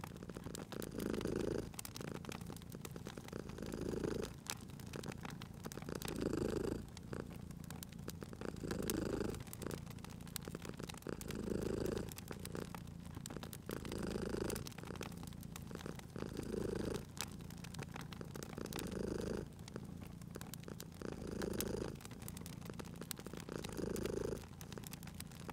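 Domestic cat purring steadily, swelling with each breath about every two and a half seconds, over a wood fire crackling with scattered small pops.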